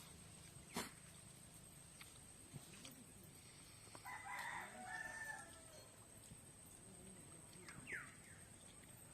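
A rooster crowing once, about four seconds in and lasting about a second and a half. There is a sharp click shortly after the start and a short falling bird chirp near the end.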